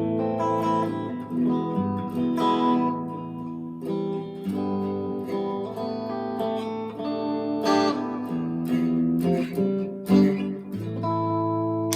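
Electric guitar played clean on the middle pickup position: chords strummed and picked every second or two, each left to ring.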